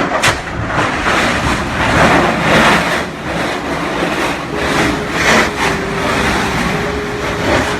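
Erupting Kilauea lava fissure roaring steadily, like a jet engine, surging louder in several bursts.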